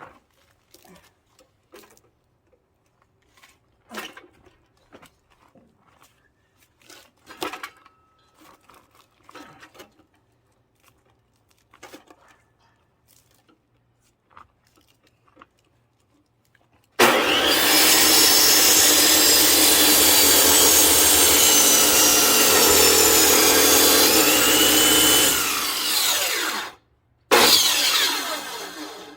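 Scattered knocks and handling sounds, then a little over halfway through a power saw starts cutting into a thick pine log, its pitch bending as the blade loads up. It cuts off abruptly, pauses for a moment, and starts again, fading near the end.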